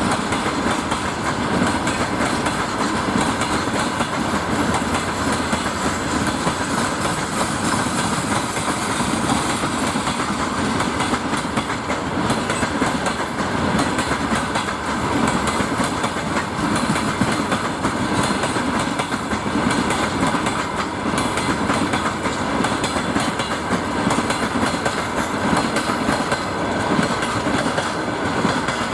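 Freight train's wagons rolling past at speed, with continuous rumble and wheel clatter over the rail joints.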